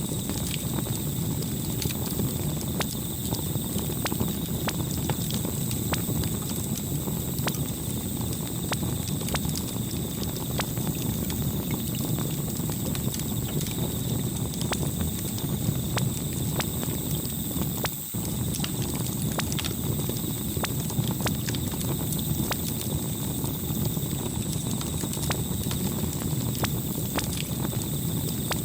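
Campfire burning: a steady low rumble of flames with dense, irregular crackles and pops of burning wood, over a faint steady high tone.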